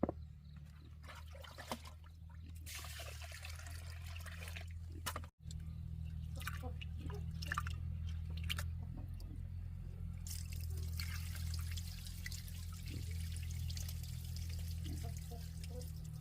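Water pouring and trickling in two spells, the second longer and from about ten seconds in, with small knocks and splashes between.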